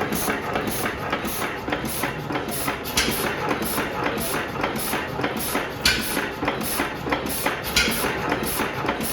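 Dudbridge 3hp stationary gas engine of about 1900 running, with a steady mechanical clatter and a regular tick about twice a second. A louder beat comes every two to three seconds.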